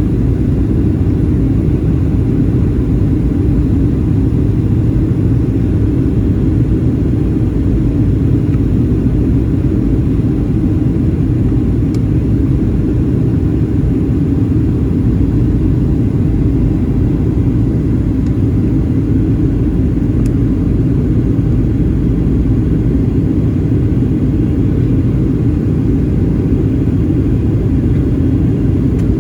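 Steady low rumble of a Boeing 737-800 in flight, its CFM56-7B engines and the airflow over the airframe heard as one constant drone.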